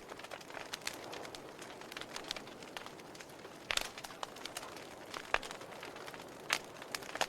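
Fireplace fire burning with a steady low hiss and irregular sharp crackles and pops; the loudest pops come about halfway through and near the end.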